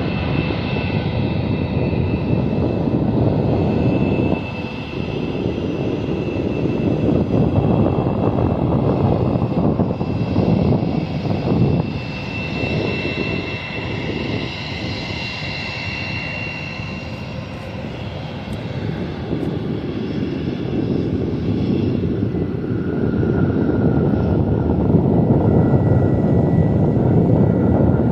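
The CFM56-7B turbofan engines of a Boeing 737-800 jet airliner running, as it gets ready for takeoff. There is a steady roar with a high whine over it, and it grows louder over the last few seconds.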